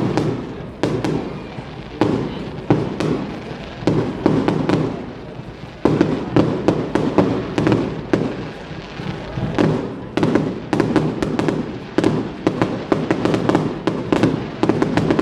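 Fireworks going off: a rapid, irregular series of sharp bangs and pops, some in quick clusters, each trailing off in a rumbling echo.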